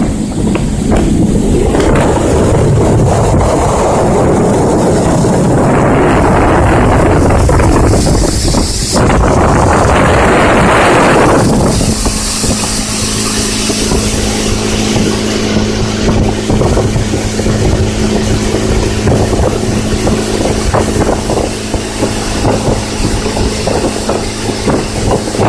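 Motorboat under way. For about the first twelve seconds it is mostly rushing wind and water noise, with a brief dip partway through. After that the engine's steady drone comes to the fore, with a low hum beneath it.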